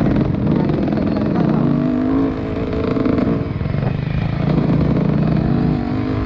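Motocross bike engines revving up and easing off repeatedly, the pitch rising and falling as the riders work the throttle on the track.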